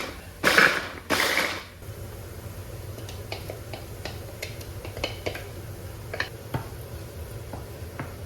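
Three short bursts of noise in the first two seconds, then light scattered clicks and taps of kitchen utensils and dishes over a low steady hum.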